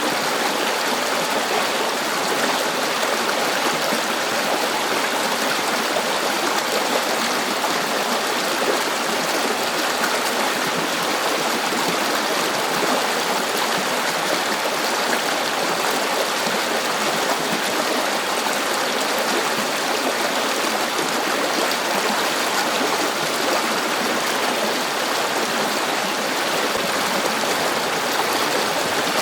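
River water flowing over stones: steady rushing and gurgling with no changes.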